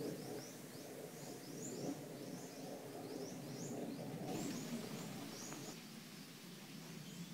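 A forest bird giving a string of short, high chirps, about two a second, that thin out about six seconds in, over a steady low background noise.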